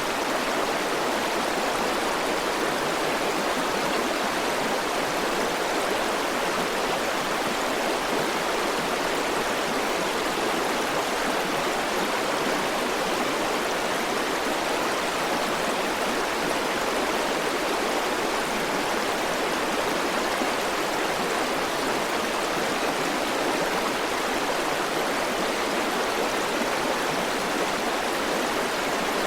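River water flowing over rocks: a steady, unbroken rushing.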